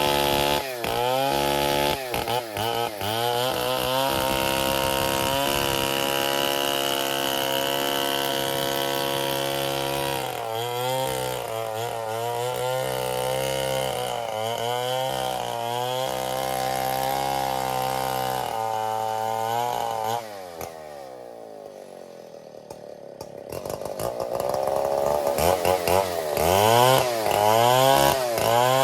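Stihl 070 two-stroke chainsaw sawing ironwood, its engine speed rising and falling as it works, with steady stretches in the cut. About two-thirds of the way through it drops to a quieter idle, then is revved up again in short repeated bursts near the end.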